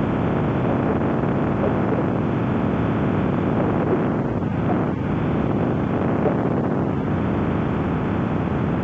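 Suzuki Bandit 1200S motorcycle's inline-four engine running steadily at road speed, mixed with a constant rush of wind over the helmet microphone.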